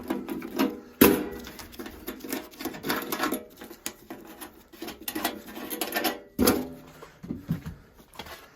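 Metal parts of an old steam boiler being worked loose by hand: irregular metallic clattering and scraping, with a sharp knock about a second in and another near six and a half seconds.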